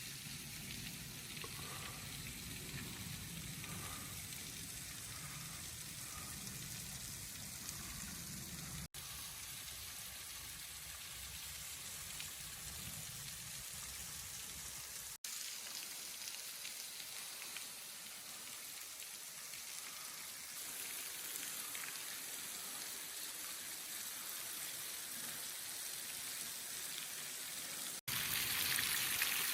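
Waterfall spray falling and splashing steadily, an even hiss of water, with a few abrupt shifts in tone and level; it is louder near the end.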